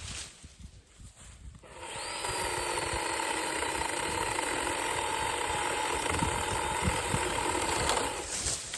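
Hart chainsaw cutting through a cedar trunk. It starts about a second and a half in, runs steadily for about six seconds and stops near the end.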